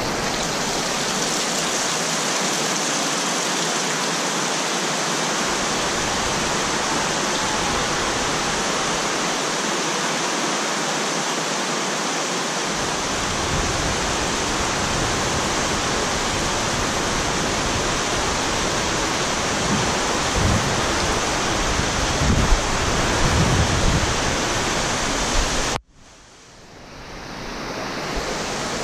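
Heavy typhoon rain pouring steadily, a continuous dense hiss, with a few low rumbles about two-thirds of the way through. Near the end the sound cuts out sharply and slowly builds back.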